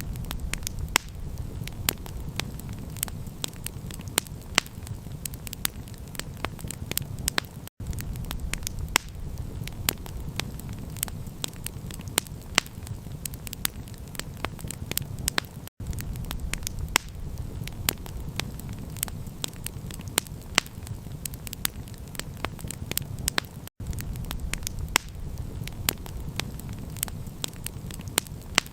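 Campfire crackling: frequent sharp pops and snaps over a steady low roar of burning. The sound cuts out for an instant about every eight seconds.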